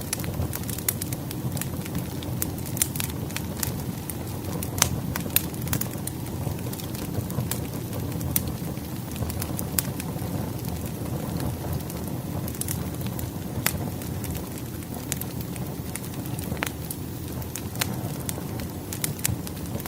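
Wood fire crackling: a steady low rush of burning logs with frequent, irregular sharp pops and snaps.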